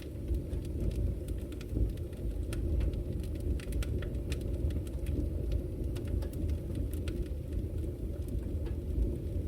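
Wood fire crackling in a fireplace: a steady low rumble of the flames with frequent small sharp pops and snaps.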